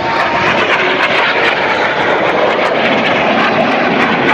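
Jet aircraft flying past at an airshow display, a loud steady rushing engine noise.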